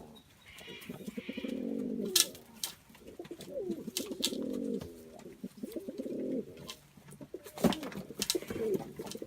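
Doves cooing, several low rolling coos one after another, with a few sharp clicks and taps between them.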